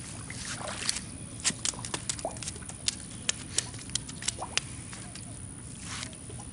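A run of sharp, irregular clicks and taps from handling a just-caught small catfish and the fishing tackle. Near the end there is a short rustling burst.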